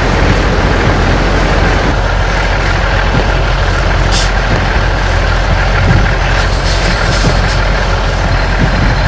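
Blizzard wind blowing hard against the microphone: a loud, steady rumble and rush, with a brief sharp hiss about four seconds in.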